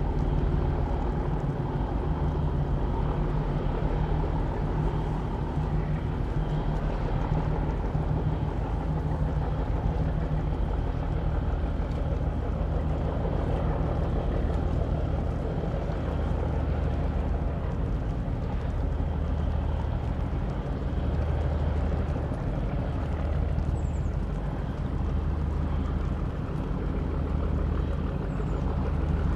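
Diesel engine of a river sand-carrying boat running steadily, a low hum that swells and fades slowly.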